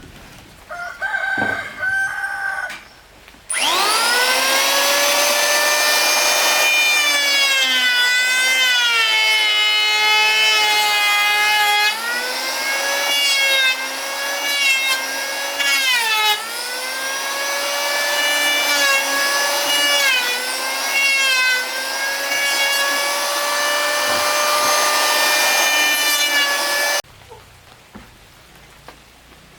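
Power saw cutting wood. It starts a few seconds in and spins up, then runs loud and steady for over twenty seconds, its pitch dropping each time it bogs down in the cut before it stops abruptly.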